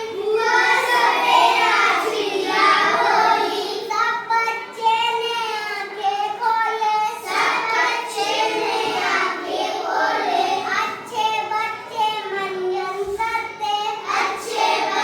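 Children chanting a Hindi rhyme in a sing-song voice, without a break.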